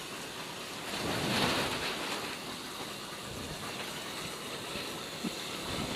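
Wind rushing over a greenhouse's plastic roof sheeting, a steady noise that swells in a gust about a second in.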